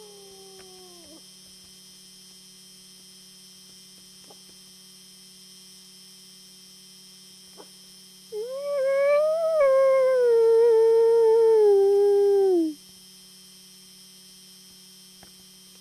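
A wolf howling: one long howl of about four seconds that rises, holds and slides down at the end, after the falling tail of an earlier howl dies away in the first second. A steady faint hum lies beneath.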